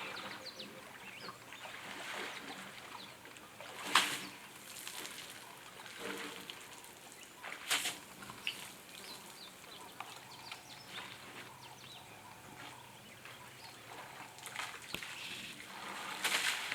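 Scattered bird chirps over a low outdoor hiss, broken by three brief splashes of water. The loudest splash comes about four seconds in, a second near eight seconds and a third near the end.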